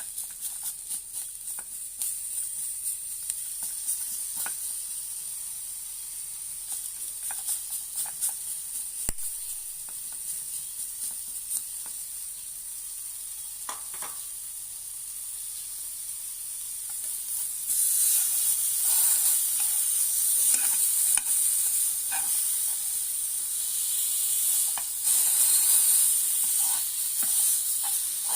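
Pre-boiled ribs sizzling in a hot pan, with occasional short clicks of a utensil against the pan. The sizzle gets clearly louder about two-thirds of the way through.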